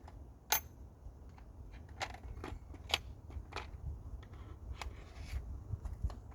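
Scattered clicks and taps of a drill bit being swapped in a cordless hammer drill's chuck. There are about eight separate sharp clicks, with no motor running.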